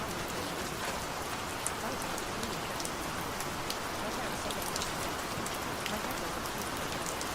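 Steady rain falling, an even hiss with many scattered individual drops ticking sharply.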